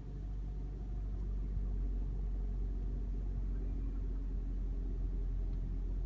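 Lexus ES250's engine idling, a steady low rumble heard from inside the cabin, getting a little louder about a second in.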